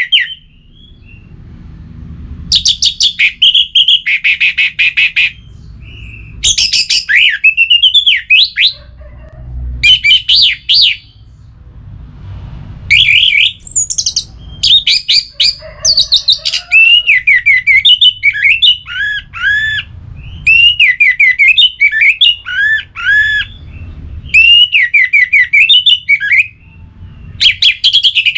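Orange-headed thrush singing: loud phrases of one to two seconds with short pauses between them, many built from quick runs of repeated down-slurred notes.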